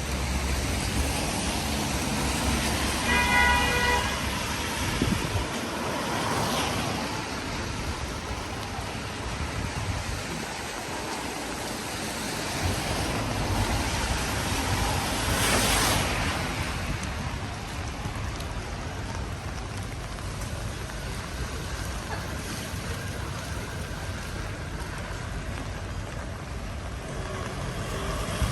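Road traffic passing on a rain-wet street, a steady hiss with a couple of louder swells as vehicles go by. A car horn gives one brief toot about three seconds in.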